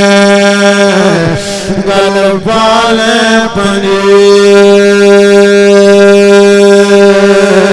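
A man's voice chanting a devotional verse in long held notes, sliding between pitches in the first few seconds and then holding one note steadily to the end.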